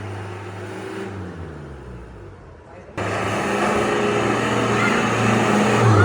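Motor of a restored Shimizu water pump slowing down with a falling hum over the first few seconds, then suddenly running loudly again with a steady low hum about three seconds in.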